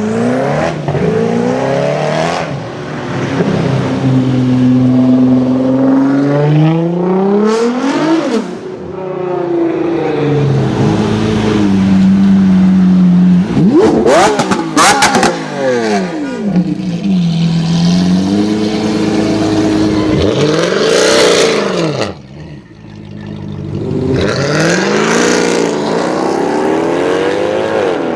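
High-performance car engines revving and accelerating hard, their pitch climbing and falling again and again, with several cars passing close by. A short lull comes about three quarters of the way through.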